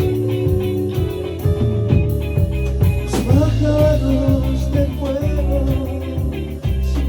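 A rock band rehearsing: electric guitar, bass and drums play a steady repeating groove, and a wavering lead melody comes in about three seconds in.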